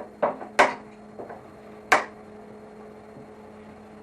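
Three sharp knocks, the second and third loudest, with the third a little over a second after the second, over a steady electrical hum.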